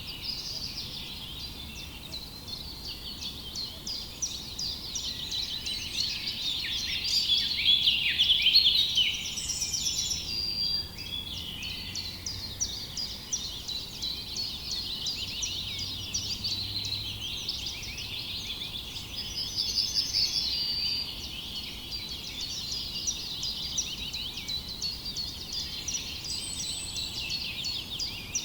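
A chorus of many small birds chirping and twittering at once, a dense unbroken tangle of quick high calls that swells briefly about a quarter of the way through.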